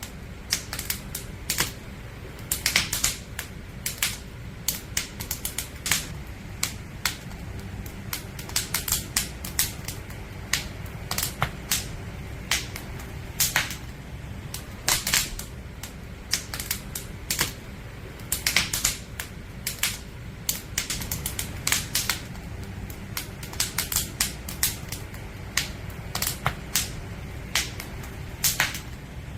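Wood fire crackling: irregular sharp pops and snaps from burning logs, sometimes in quick clusters, over a steady low rush of the flames.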